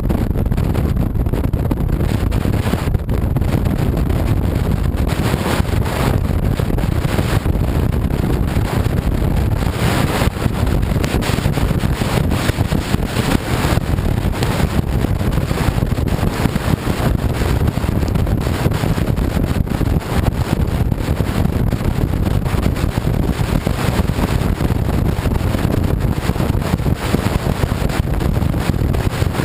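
Steady wind rush on the microphone over the running V-twin engine of a 2007 Honda VTX 1300C motorcycle underway at speed.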